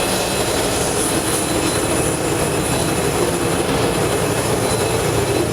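Steady aircraft turbine noise on an airport apron: a continuous loud rush with a constant high-pitched whine that holds unchanged throughout.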